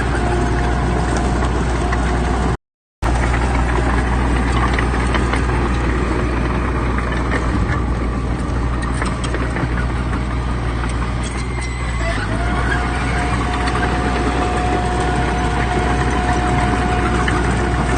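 Heavy diesel engine of earthmoving machinery running steadily under a constant low rumble, with a thin steady whine above it. The sound cuts out completely for a moment about three seconds in.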